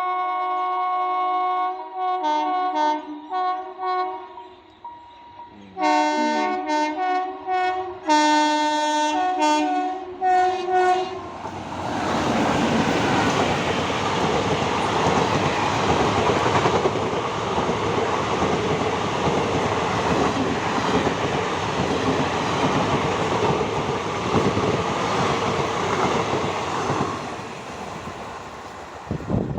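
Horns of the Malda Intercity Express's two locomotives: one long blast, then a string of short blasts as the train nears. After about 12 seconds the horns give way to the steady rush and wheel clatter of the express passing at speed, which fades near the end.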